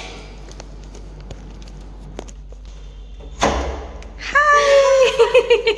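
A thud like a door about three and a half seconds in, then small pet dogs whining in high, wavering cries.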